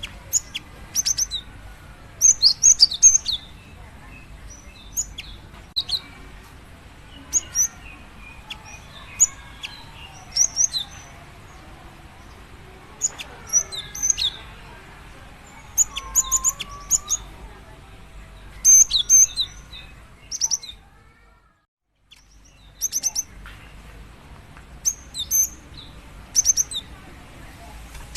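Female cinereous tit calling to a male: clusters of short, very high chirps repeated every second or two, with fainter softer bird calls behind. The calls break off for about a second roughly three-quarters of the way through, then resume.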